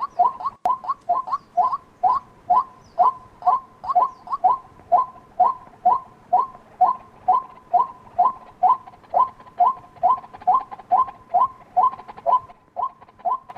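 White-breasted waterhen calling: a long, even run of short, repeated 'kwak' notes, about two a second.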